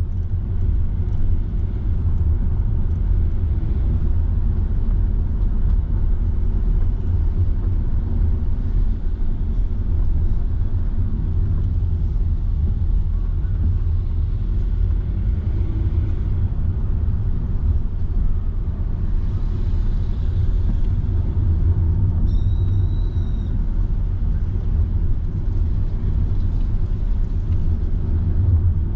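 Car driving at low speed: a steady low rumble of road and engine noise. Late on, a short high tone sounds for about a second.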